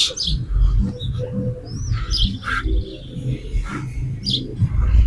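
A few short bird chirps, one a quick sliding note, over a steady low rumble.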